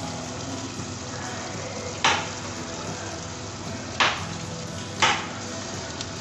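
Tomato-onion masala with spices frying and sizzling in oil in a pressure cooker while it is stirred with a spatula. The spatula knocks sharply against the pot three times, about two, four and five seconds in.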